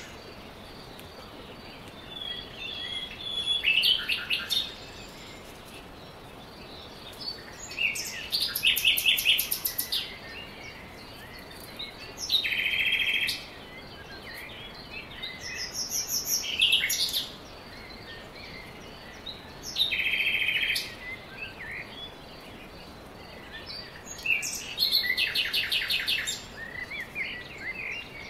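Songbird singing short, high, rapid trills about every four seconds, with a few thin whistled notes between phrases, over a steady background hiss.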